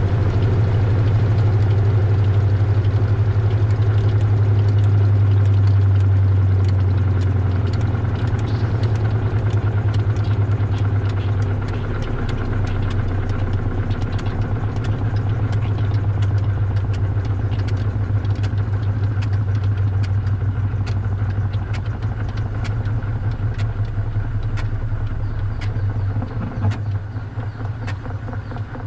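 Washing machine drum running with a strong steady motor hum, heard from inside the drum. After about seven seconds the hum eases and many quick clicks and rattles of loose keyboard keys tumbling in the drum come through.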